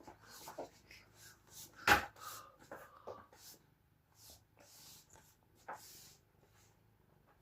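Quiet rustling and handling noises with short breathy hisses, broken by one sharp knock about two seconds in.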